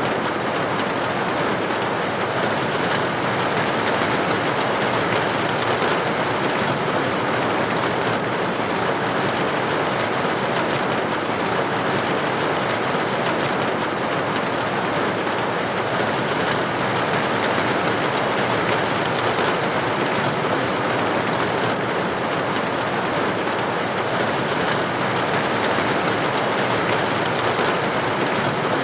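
Steady rain on a window: an even, unbroken hiss of raindrops with no changes or separate events.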